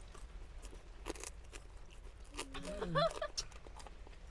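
Scattered small clicks and crunches in a quiet car cabin, with one short sing-song vocal sound, its pitch rising and falling, about three seconds in.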